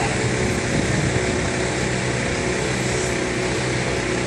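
Steady low hum of idling vehicle engines, with a continuous street background and no sharp events.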